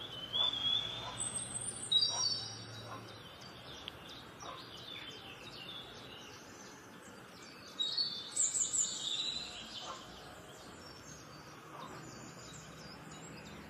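Birds chirping in short high calls, in two spells, near the start and again about eight seconds in, over a steady low background hiss.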